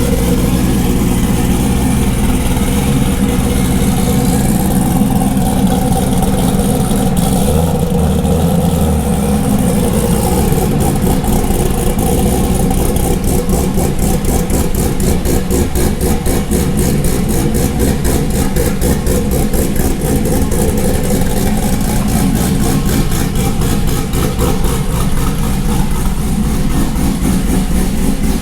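Supercharged Corvette C6 V8 running steadily at idle, its pitch holding level rather than revving. A fast pulsing in the sound grows quicker from about halfway through.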